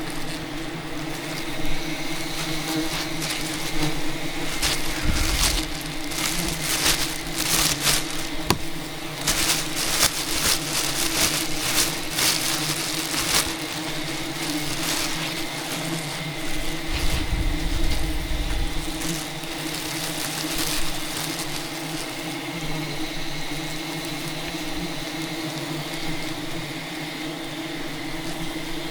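Steady buzzing of a swarm of wild honeybees around the hive, with a stretch of dense crackling and snapping in the middle.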